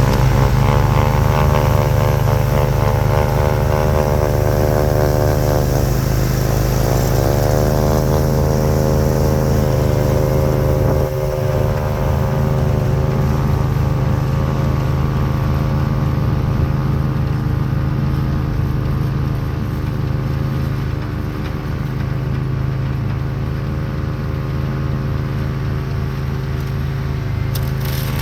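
Lawn tractor engine running steadily at working speed while driving a front-mounted two-stage snowblower through heavy wet snow. Its speed dips briefly about six seconds in and then recovers.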